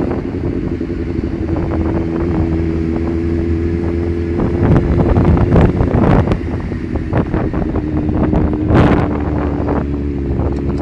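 Motorcycle engine running at a steady pitch, with wind buffeting the microphone. A few sharp cracks cut through it, the loudest about nine seconds in.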